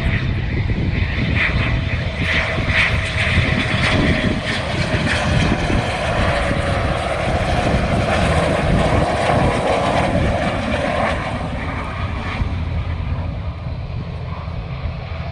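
A landing aircraft's engines passing close by, a loud steady rumble with a slowly falling tone that fades over the last few seconds.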